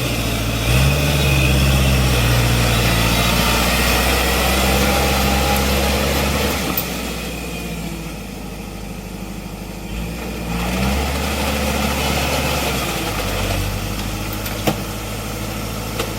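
Kubota L5018 tractor's diesel engine running steadily, its note shifting up and down a few times.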